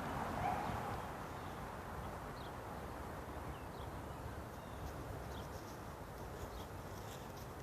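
Quiet outdoor ambience: a steady low rumble with a few faint, brief bird chirps scattered through it and some light ticking near the end.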